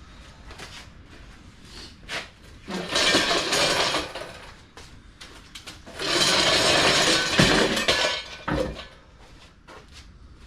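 Heavy metal scraping and clattering in two long spells, with scattered knocks between them, as the old rear axle assembly is wrestled out from under the truck.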